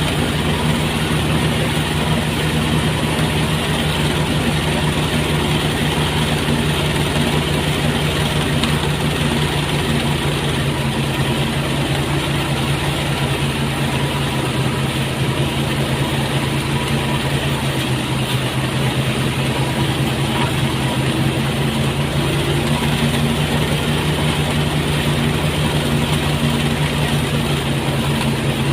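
Motorized rice threshing machine running steadily: a constant engine drone over a steady noisy rush, unchanging throughout.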